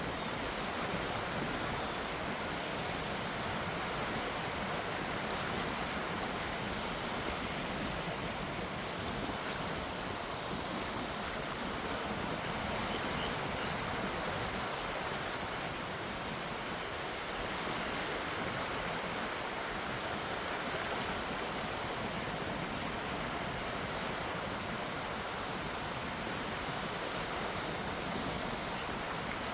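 Gentle sea waves: a steady, even wash of water with no single wave standing out louder.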